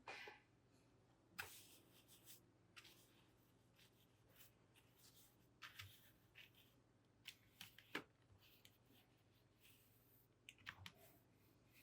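Faint, scattered clicks and light rustles of a keyboard and its parts being handled and cleaned.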